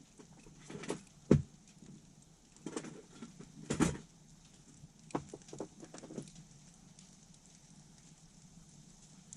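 Burning firewood in a campfire giving off irregular sharp cracks and knocks, about eight in the first six seconds, the loudest two near the start and the middle, then settling to a faint steady hiss.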